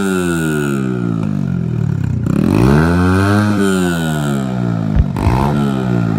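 Honda XR100R dirt bike's small four-stroke single-cylinder engine revving up and easing off twice as the bike is ridden.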